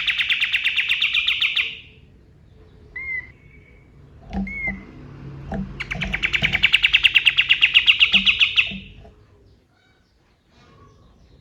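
Kapas tembak singing: a very fast, rapid-fire trill of repeated sharp notes that stops about two seconds in, a few short single notes, then a second long trill from about six to nine seconds in.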